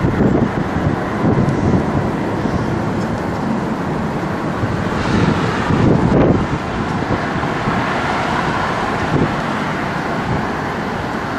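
Steady rumble of distant engine noise, with gusts of wind buffeting the microphone; the noise brightens briefly about five seconds in.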